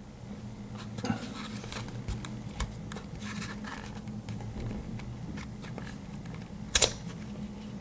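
Cardboard knife box being handled and opened: faint scraping and small clicks of the lid, with one sharper click near the end, over a low steady hum.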